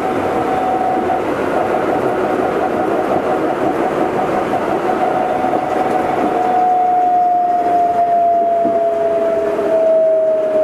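Running sound inside an Astram Line 7000 series rubber-tyred guideway train: a steady motor whine over tyre rumble. About six seconds in, the whine starts to fall slowly in pitch as the train slows.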